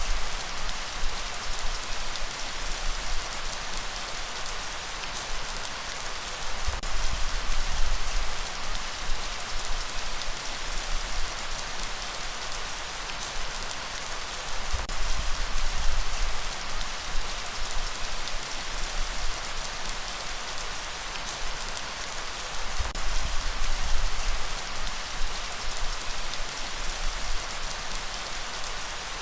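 Steady rain falling, an even hiss with scattered drop ticks. A low rumble swells and fades about every eight seconds.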